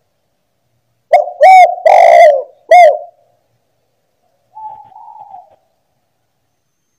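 Spotted dove cooing: a loud phrase of four or so deep, rounded coos about a second in, then a fainter, slightly higher call about halfway through.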